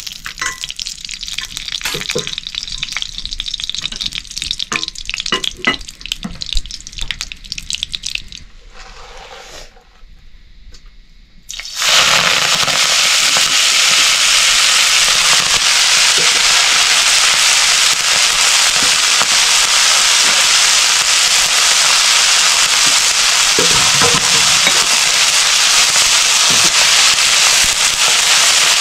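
Potato chops frying in hot oil. Scattered crackles and clicks come first, then about twelve seconds in a loud, steady sizzle starts suddenly and keeps going.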